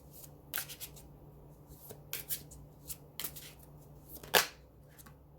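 Tarot cards being shuffled and handled: a series of short, crisp riffling swishes, the loudest a little past four seconds in.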